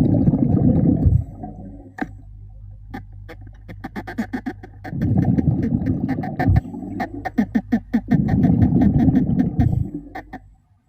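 Underwater, a diver breathing out through a regulator: three bursts of bubbles rumbling, one at the start, one about five seconds in, one about eight seconds in, with many sharp clicks in between.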